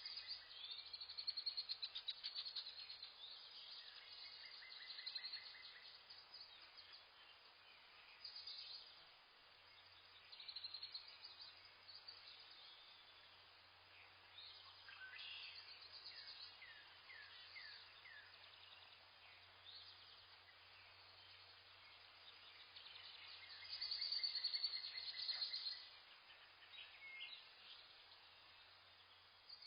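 Several birds chirping and trilling in forest, with louder bouts of rapid high calls about a second in and again near the end.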